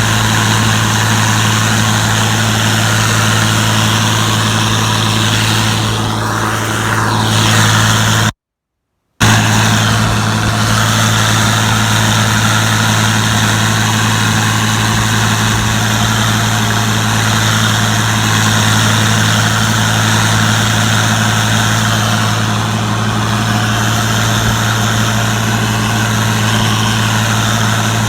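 Gleaner combine running steadily: a constant low engine drone with a strong hum over a wash of machine noise. The sound cuts out completely for under a second about eight and a half seconds in.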